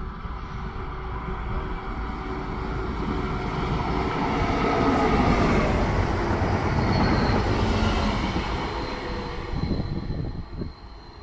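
A train running past a station platform. The rumble builds to its loudest in the middle and fades near the end, and a thin high whine joins in during the second half.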